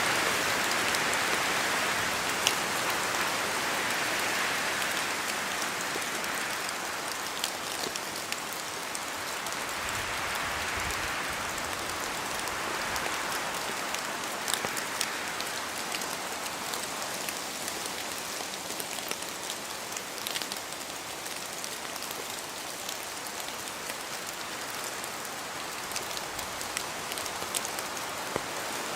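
Steady rain falling in a spruce forest, with scattered sharp drops falling from the branches. Wind swells through the trees now and then, strongest near the start.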